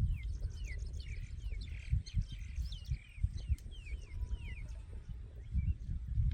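Birds calling in a quick series of short, falling chirps that stop about two-thirds of the way through, over irregular low thumps and rumble.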